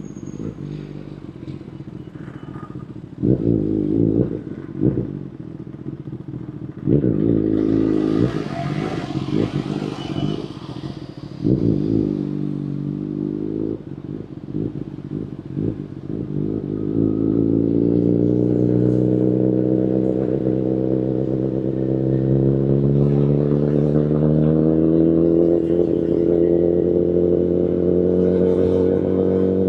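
2019 Kawasaki Ninja ZX-10RR's inline-four engine through an Akrapovic Evolution Line carbon full-system exhaust, ridden at low speed. The engine gives short throttle blips in the first half. From a little past halfway it pulls steadily, its pitch rising slowly.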